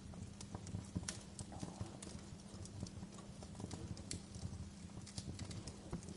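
Fire crackling, with irregular sharp pops and snaps several times a second over a steady low rumble of the flames.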